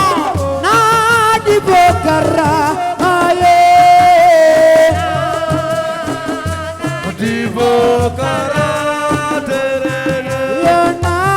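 Assiko band music: a loud, wavering melody that slides between notes over a low beat repeating about every second and a half.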